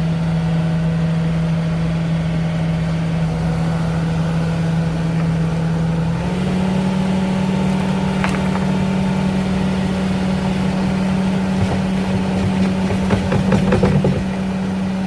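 An engine running steadily at idle. Its pitch steps up slightly about six seconds in, and a few knocks and clanks come near the end.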